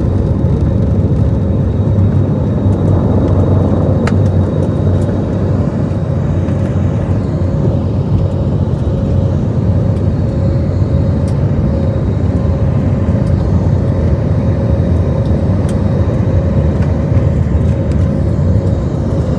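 Airliner engines running at takeoff power: a loud, steady low rumble with a constant hum over it.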